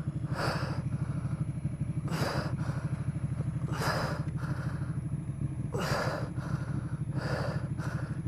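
Ducati Panigale motorcycle engine idling steadily after a crash, still running. Over it, a person breathes hard in short gasps about every two seconds.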